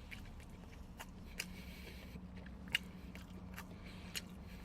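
A person chewing a mouthful of grilled chicken skewer close to the microphone, with a few sharp mouth clicks, over a low steady hum.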